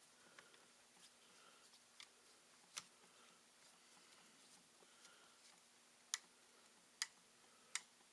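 Sparse small clicks and taps of laptop parts being handled during disassembly, a few spread out with the sharpest three between about six and eight seconds in, over a faint steady hum.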